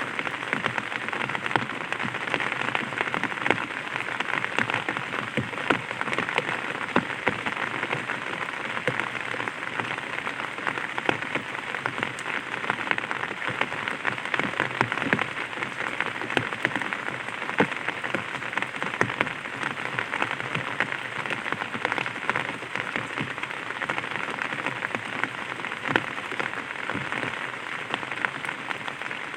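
Light rain falling on an umbrella: a steady hiss of many small, quick drop taps, strongest in the upper-middle range.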